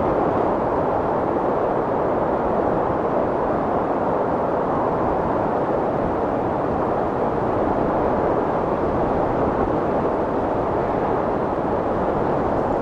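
Strong wind blowing in a steady rushing, with a gentle swell and ebb but no gusts or breaks.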